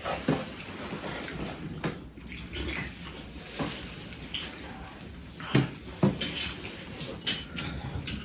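Eating at a table: chewing a burger, with a handful of light irregular clicks and clinks of dishes and cutlery.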